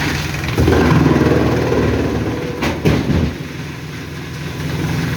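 Industrial forestry wood chipper chewing through a log, its knives splitting the wood. The load surges about half a second in and holds for roughly three seconds, with a couple of sharp cracks near the end of the surge, then the machine eases back to a steady run.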